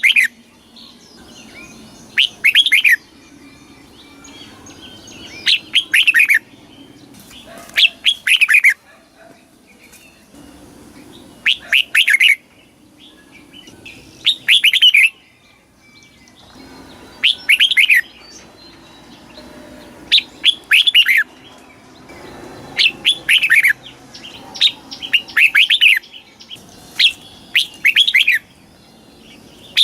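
Red-whiskered bulbul singing: about a dozen short, bright whistled phrases, one every two to three seconds and often two in quick succession.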